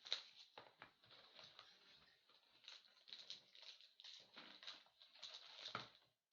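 Faint, irregular crinkling and rustling of a hockey card box's packaging being unwrapped and opened by hand.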